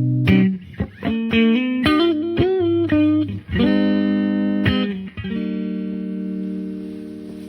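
Electric guitar playing a short lick of picked single notes with string bends, then a chord left to ring out and slowly fade.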